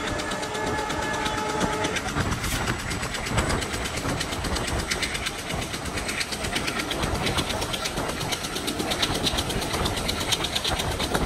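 Passenger train running along the track: a steady rumble and rattle of wheels on rails.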